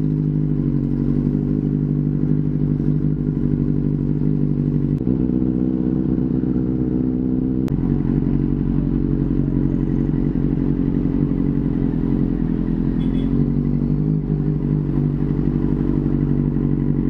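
Motorcycle engine running steadily at low revs as the bike moves slowly in traffic, with a single sharp click about eight seconds in.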